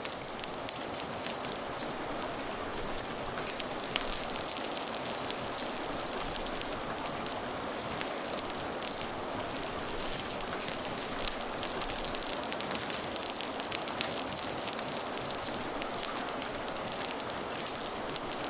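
Steady rain falling, mixed with a fire crackling: many small, sharp pops scattered irregularly over an even hiss.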